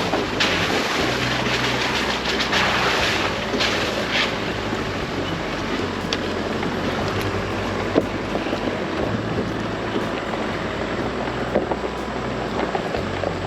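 Chevy Colorado ZR2 AEV Bison pickup driving on a gravel or dirt trail: steady road and tyre noise over a low engine hum, with scattered ticks of stones and one sharper knock about eight seconds in.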